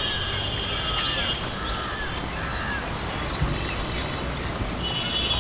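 Birds calling with short, repeated chirps over a constant low urban rumble. A steady high-pitched whine sounds for the first second and a half and comes back near the end.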